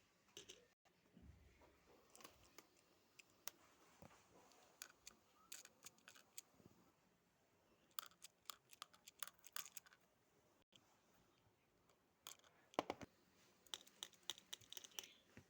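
Faint, scattered clicks and crinkly scratching from small objects being handled, thicker from about eight seconds in and again near the end, with one louder click about thirteen seconds in.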